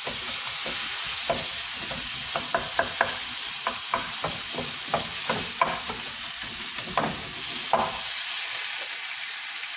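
Tomatoes, onion and spice paste frying in a nonstick pan with a steady sizzle, while a wooden utensil stirs and mashes them, scraping and knocking against the pan in irregular strokes; the stirring stops about eight seconds in and the sizzle goes on alone.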